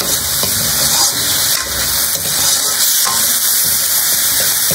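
Chicken pieces and onion sizzling in a hot aluminium wok while being stirred with a metal ladle, with a steady loud hiss and light scrapes of the ladle against the pan.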